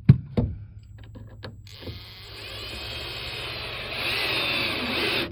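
Two short knocks, then a cordless drill runs for about three and a half seconds driving a screw into the wall, its motor whine rising and getting louder near the end before it stops suddenly.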